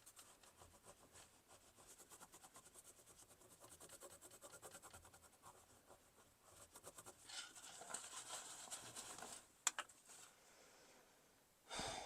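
Faint scratching and rubbing on a tarnished 50p coin to clean off washing-machine grime, in quick, even back-and-forth strokes. The rubbing gets louder for a couple of seconds after about seven seconds in, followed by a single sharp click.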